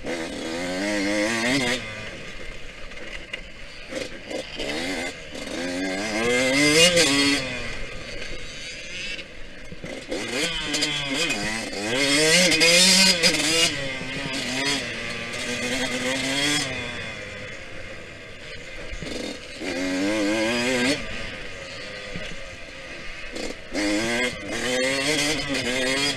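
Yamaha YZ125X single-cylinder two-stroke dirt bike engine revving hard and falling back again and again, with the pitch climbing through each gear and dropping as the throttle closes for corners.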